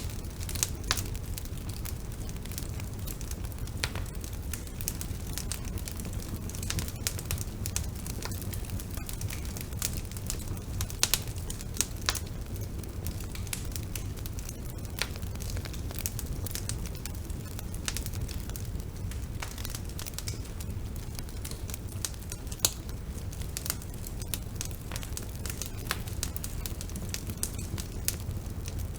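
Wood bonfire burning: irregular sharp crackles and pops over a steady low rumble of the flames.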